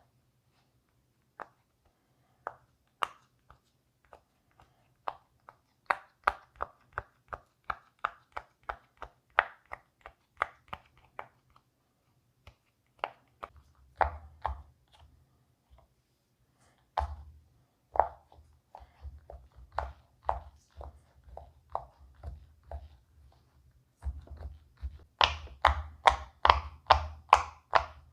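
Bubbles of a silicone pop-it fidget toy being pressed down one after another, a string of small pops with short pauses. The pops come quicker and louder in the last few seconds.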